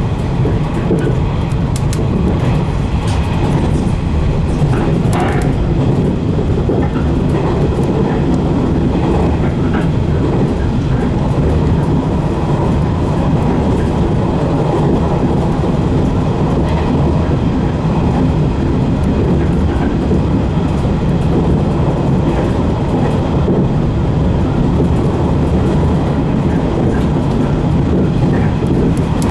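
A 115 series electric train running along the line, heard from inside the leading car: a steady rolling rumble of wheels on rail with a faint motor and gear whine. A few rail-joint clicks come in the first several seconds.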